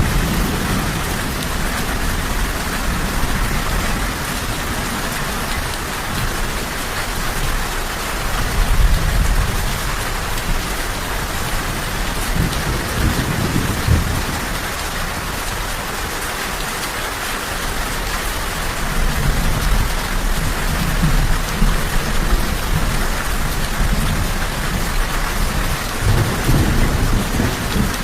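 Steady rain falling, with low rolling thunder that swells and fades several times: about a third of the way in, around the middle, and again through the last third.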